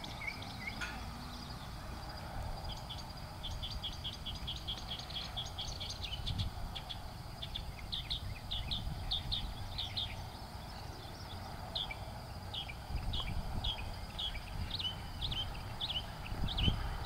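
Small birds chirping repeatedly, with short high notes in a quick run and then spaced roughly a second apart, over a steady low rumble.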